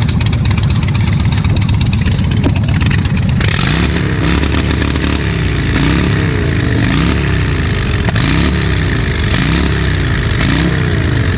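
Chopper motorcycle with a loud exhaust running at idle, then, about three seconds in, revved over and over, roughly once a second, the pitch rising and falling with each blip of the throttle.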